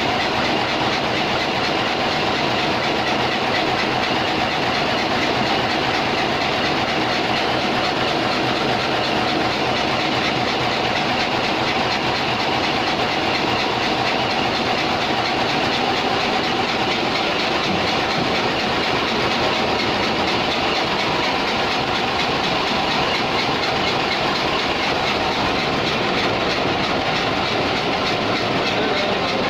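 Cummins diesel engine running steadily at a constant speed, a dense mechanical din with no change in pitch or level.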